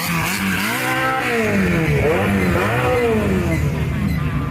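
Car engine revving up and falling back about three times, its pitch rising and dropping with each blip.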